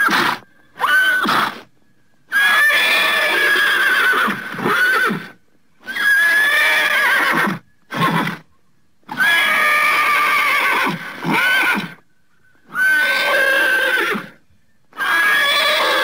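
Horse whinnying over and over: a string of separate high neighs, each from under a second to about two seconds long, with short silent gaps between them.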